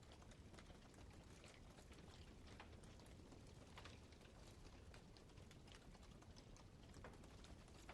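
Campfire crackling faintly, with scattered small snaps and pops of burning wood at irregular intervals.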